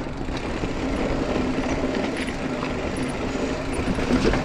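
Mountain bike rolling over a dirt trail: a steady rumble of tyres and wind on the mic, with small scattered clicks and rattles.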